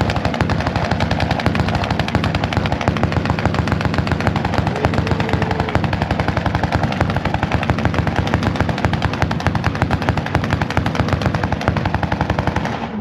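A car engine held on a two-step launch limiter, its exhaust letting out a rapid, continuous string of pops and bangs like machine-gun fire.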